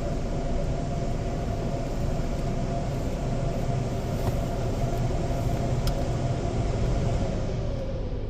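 Steady machinery hum and hiss with a constant mid-pitched whine, as the car moves into the car wash bay; the high hiss fades out near the end.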